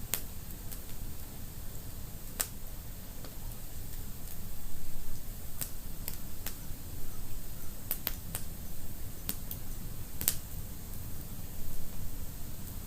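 Wood fire crackling in a fireplace: sharp, irregular pops and snaps every second or two, the loudest about ten seconds in, over a steady low rumble of the flames.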